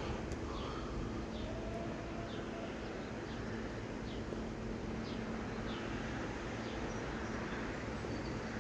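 Outdoor ambience: a steady low rumble and faint hum, with short, falling bird chirps repeating every second or so.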